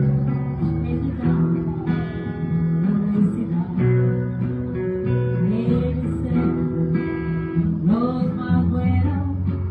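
Live acoustic duo performing a country ballad: strummed acoustic guitar accompanying a singing voice.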